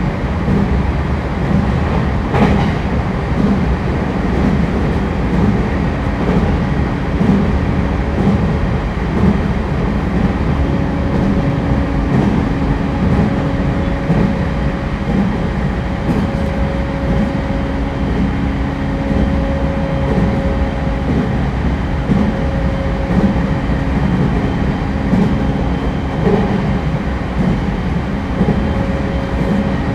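Inside a JR East E231-1000 series electric commuter train (refurbished car) running at speed: steady wheel-on-rail rumble and car noise, with faint even tones that fade in and out and a single sharp click about two seconds in.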